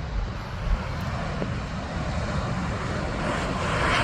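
Jet engines of a Boeing 737 airliner coming in to land, a broad rushing hiss that grows louder near the end, over a steady low rumble.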